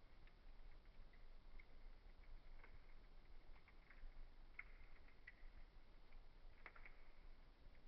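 Faint crackling of a wood fire: scattered small pops, with a few louder ones past the middle.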